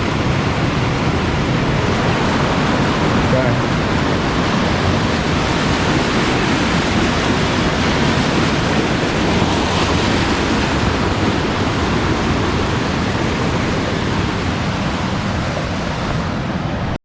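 A river rushing below a footbridge, a loud, steady wash of running water that cuts off suddenly at the very end.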